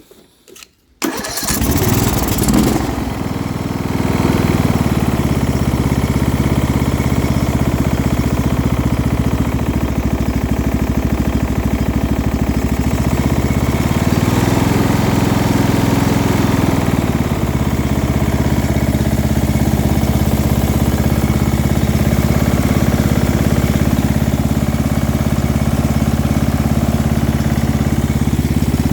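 A rebuilt lawn mower engine starts about a second in and runs steadily, picking up speed briefly midway. It carries a low-end rattle that the owner judges is a noise but not a real knock.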